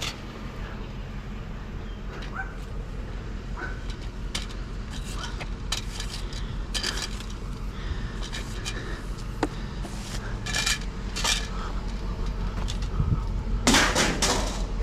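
Hard scrap items clinking and clattering as they are handled and sorted by hand, a run of short knocks with a louder clatter near the end.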